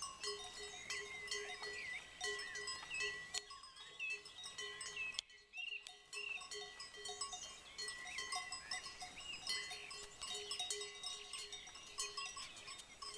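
Livestock bells clanking irregularly, each ringing at its own steady pitch, with small birds chirping among them.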